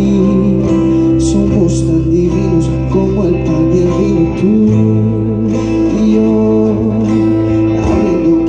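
Live band playing the instrumental introduction of a song, with guitar over a sustained bass. The bass note changes about halfway through.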